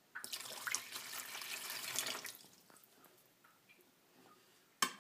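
Water pouring and splashing into a cup for about two seconds, then a single sharp knock near the end.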